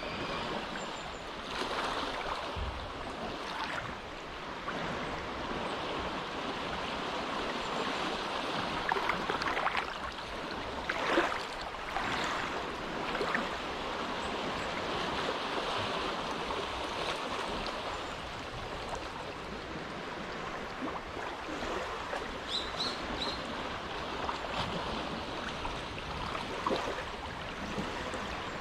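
Small, gentle waves lapping at the shore of a sheltered inlet, a steady wash of water with a few louder splashes about ten seconds in. A bird gives a few short high chirps about two-thirds of the way through.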